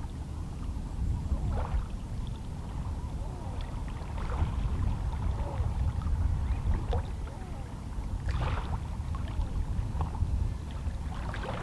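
Calm sea water lapping and sloshing against shoreline rocks: a steady low wash, with small splashes and gurgles every few seconds.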